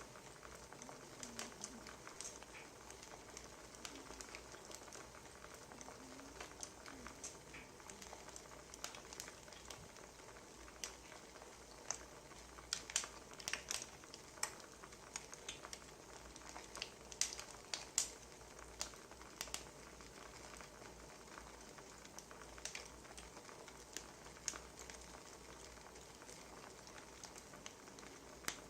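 Wood fire crackling: irregular sharp pops and snaps over a soft steady hiss, busiest around the middle.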